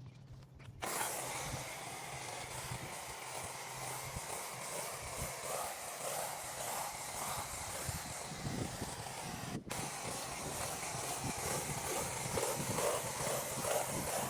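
Pressure washer spraying: a steady hiss of water spray over a low, even motor hum. It starts about a second in and breaks off for a moment about two-thirds through.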